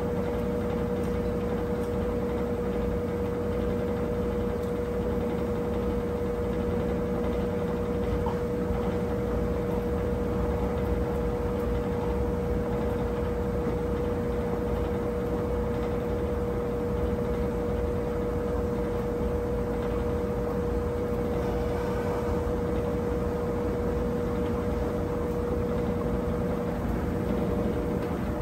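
Brastemp 17 kg washing machine running steadily, a constant motor whine over a low hum.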